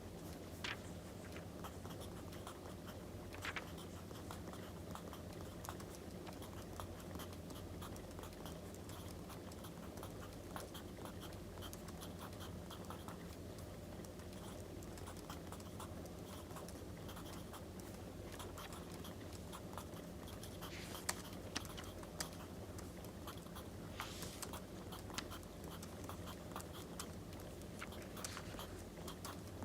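Wood fire crackling: a steady low rumble with many small pops and crackles, and a few louder snaps near the end.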